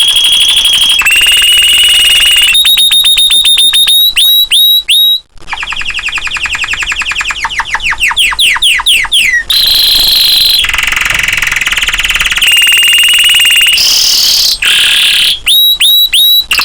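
Domestic canary singing continuously in fast trills and rolls, the phrases changing every second or two, with a brief break about five seconds in followed by a long run of quick notes that each slide down in pitch.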